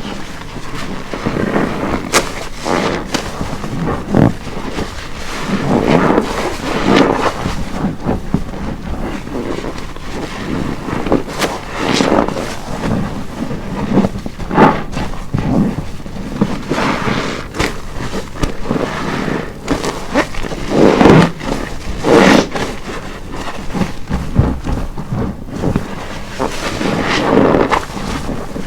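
A wet car-wash sponge full of detergent being squeezed and let go again and again, squelching and crackling with foam in uneven, irregular surges.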